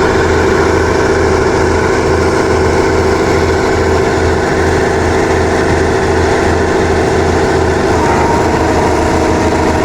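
Backhoe's diesel engine running steadily with a fast, even chug. A faint steady whine joins in about eight seconds in.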